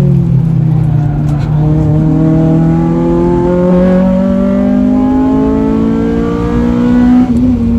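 Honda Civic Type R's four-cylinder engine with an aftermarket cat-back exhaust, pulling at full throttle on track, its pitch climbing steadily for about seven seconds. Near the end the pitch drops with a short break in the sound as it shifts up a gear.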